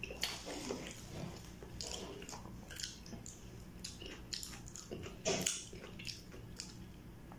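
A person chewing and biting food close to the microphone while eating battered, deep-fried kwek-kwek: wet mouth sounds with irregular small crunches and clicks, and one louder burst just past five seconds in.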